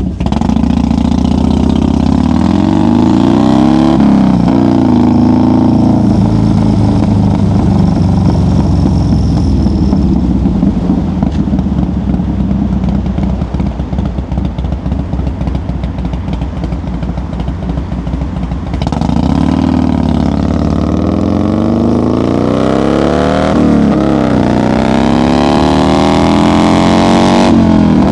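1990 Harley-Davidson FXR's V-twin under way on the highway. It pulls up through the revs with a gear change about four seconds in, then runs steadier and a little quieter for a long stretch with the throttle eased. From about two-thirds through it accelerates again, the pitch rising and dropping at two more upshifts.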